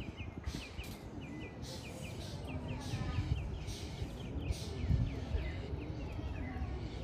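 Small birds chirping: short, high, repeated chirps several times a second over a low steady background rumble.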